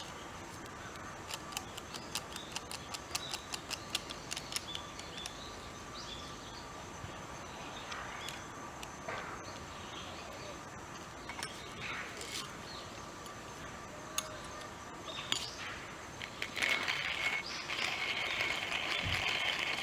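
Small twig fire in a Firebox Nano stove crackling, with many sharp irregular pops. About three-quarters of the way through, a louder steady hiss sets in and continues.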